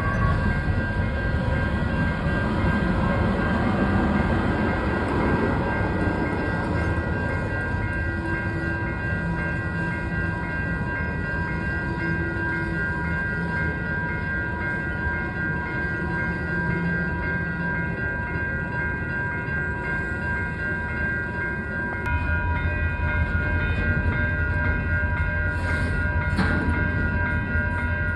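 Union Pacific freight train of empty cars rolling past: a steady rumble with several high steady ringing tones over it. The low rumble gets louder about three quarters of the way through, and a few sharp clicks come near the end.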